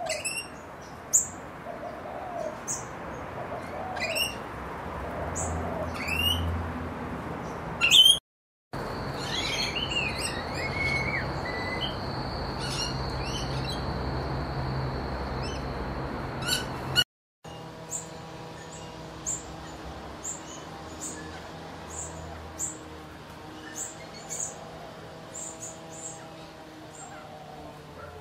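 Pet parrots chirping: short, sharp high chirps repeating every second or two. The sound comes in three separate clips, each cut off abruptly, about a third and about two-thirds of the way through.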